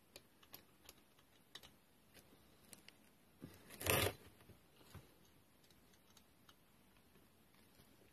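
Scattered light clicks and taps of hand tools working on a strimmer engine while the carburettor spacer is tightened down, with one louder, rasping scrape about four seconds in.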